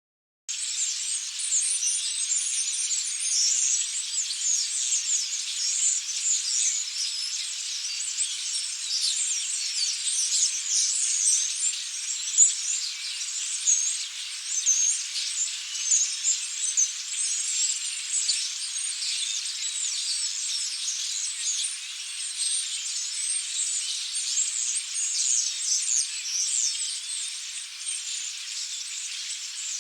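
A large flock of European starlings chattering: a dense, continuous mass of high chirps, squeaks and whistles from many birds at once. It starts after a brief break right at the beginning.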